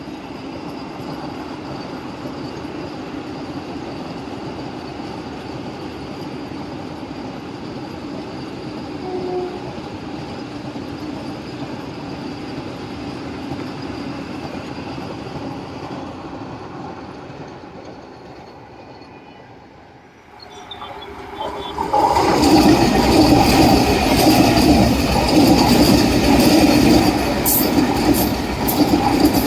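Vande Bharat Express electric trainset running on the rails: a steady rumble for about twenty seconds, then suddenly much louder about 21 seconds in as the wheels clatter over the track, with sharp clicks near the end.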